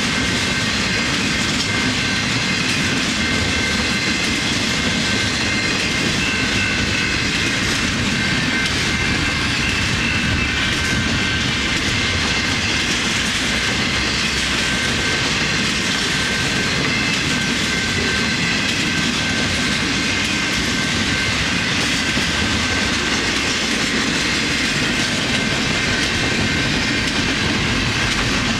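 Canadian Pacific intermodal freight train rolling past at a steady speed: continuous loud wheel-on-rail rumble of the passing container cars, with faint high-pitched tones over it.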